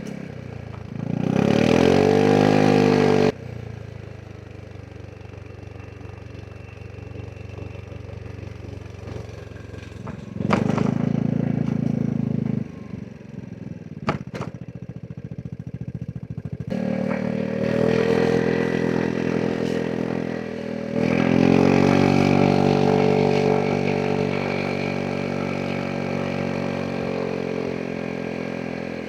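Vespa GTS 300 SuperSport scooter's single-cylinder four-stroke engine on a ride: a brief loud burst of throttle about a second in, then quieter running off the throttle, before it pulls hard again from about two-thirds of the way in and holds steady, easing slowly near the end. A loud rush of low noise interrupts for about two seconds in the middle.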